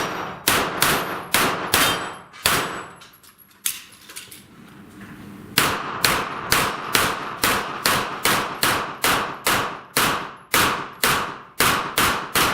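Semi-automatic gunfire at steel plate and popper targets, each shot followed by a decaying ring and clang from the steel. There are about six quick shots, then a pause of about three seconds broken by a single shot, then a steady string of shots at about two to three a second.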